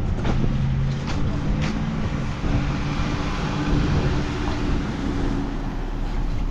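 Strong wind buffeting the microphone in a loud, rumbling roar, with a low steady hum under it for the first five seconds or so.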